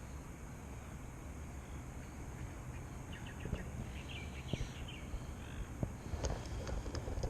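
Steady low outdoor rumble with a bird chirping several times in the middle, and a few light clicks near the end.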